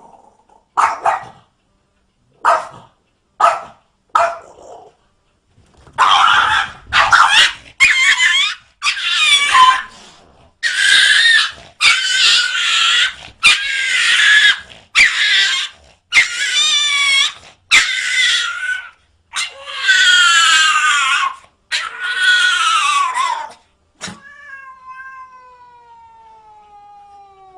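A cat yowling over and over: a few short cries, then about a dozen loud, drawn-out wavering yowls one after another. Near the end comes one long call sliding down in pitch.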